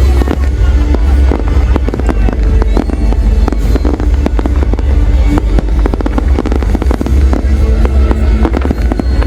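Fireworks display going off non-stop: a rapid, unbroken stream of bangs and crackles over a deep rumble, with music playing underneath.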